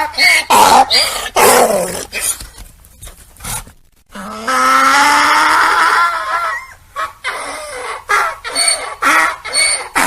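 Donkeys braying: rhythmic hee-haw calls, a break about four seconds in, then one long drawn-out call and more rhythmic braying near the end.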